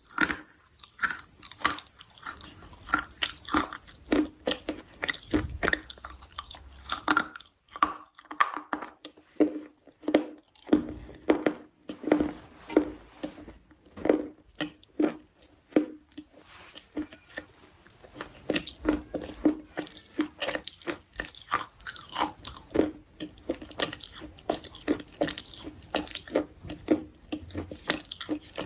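Close-up chewing of a crunchy food, a steady run of crisp crunches, about two to three a second.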